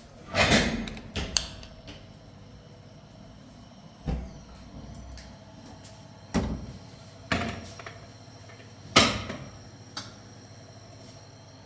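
A series of separate knocks and bangs, about eight at irregular spacing, each short with a brief ring after it; the loudest come near the start and about nine seconds in.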